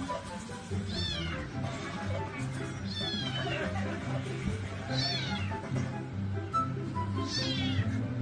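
A cat meowing four times, about two seconds apart, each meow rising and then falling in pitch, over background music.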